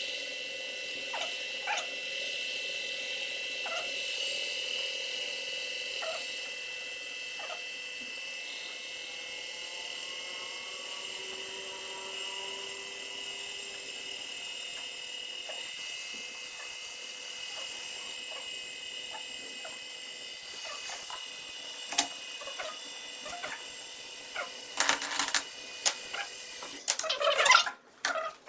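Motor-driven oil friction test rig running with a steady high whine and scattered clicks; near the end the clicks come thick and loud.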